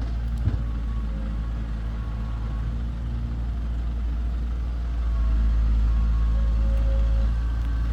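Heavy diesel engine of construction machinery running steadily, a little louder from about five seconds in, with a brief knock about half a second in.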